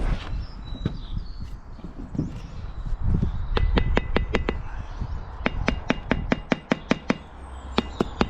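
A run of sharp, ringing taps of metal on tile, a trowel tapping tiles down into their mortar bed: a few taps, then about a dozen in quick succession, then a few more near the end. A low rumble lies under it throughout.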